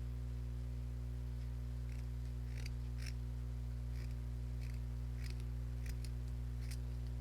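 Scissors snipping through jute twine, a handful of faint short snips a second or so apart, over a steady low electrical hum.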